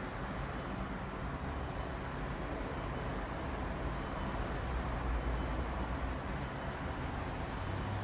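Steady background rumble and hiss of traffic noise, with faint short high-pitched chirps repeating about once a second.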